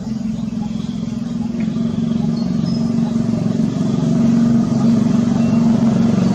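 A steady motor hum, as of an engine running, growing gradually louder.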